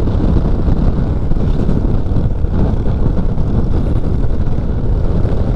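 Motorcycle on the move: a steady engine and road rumble mixed with wind buffeting the microphone.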